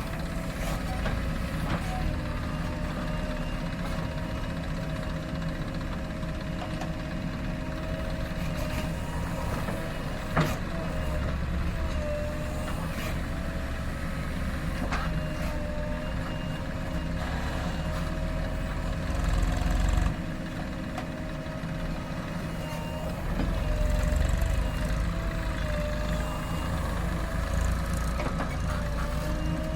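JCB 3DX backhoe loader's diesel engine running and repeatedly revving up under load as it digs and loads mud, with a steady wavering whine over it. A single sharp clank about ten seconds in.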